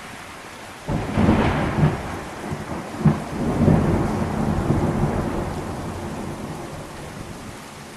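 Thunder over steady rain: a sudden loud clap about a second in, a few sharper cracks within the next couple of seconds, then a long rumble that fades away.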